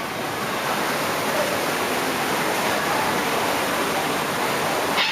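Steady rush of falling water, an even hiss.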